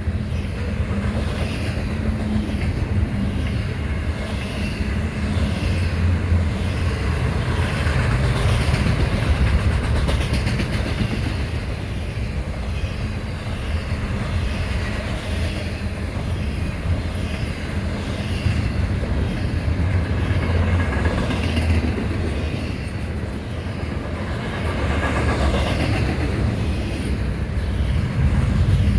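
Freight train cars rolling steadily past with a continuous rumble and repeated clicking of wheels over rail joints.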